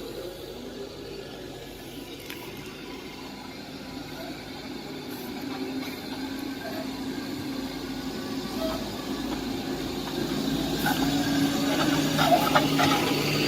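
Heavy diesel engine running steadily, growing louder over the last several seconds, with a few short clatters near the end.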